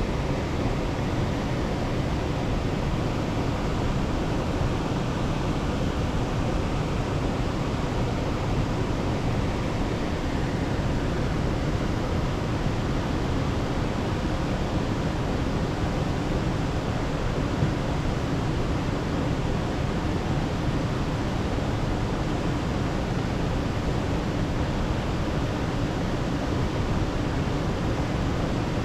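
Steady, even rushing noise that holds at one level throughout, with no separate sounds standing out.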